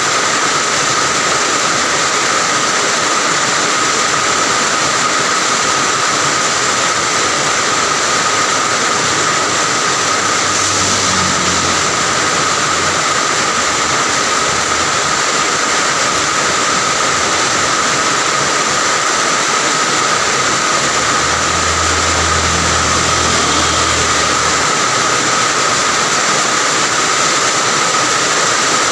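Heavy rain falling steadily as a dense, even hiss. A low vehicle hum rises and fades twice, once about ten seconds in and once just past twenty seconds.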